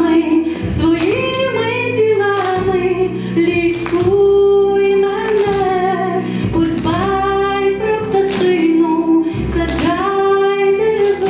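A song sung in high voices over instrumental accompaniment, with notes held for about a second each.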